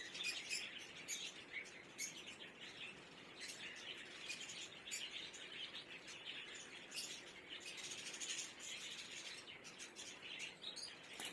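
Small birds chirping faintly and continuously, with scattered light clicks.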